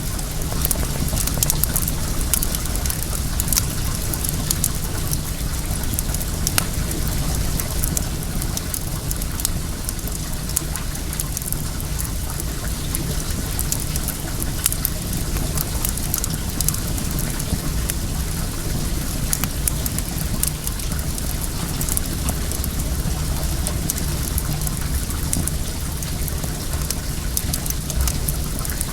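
Wood fire crackling, with frequent small sharp pops, over the steady rush of flowing well water.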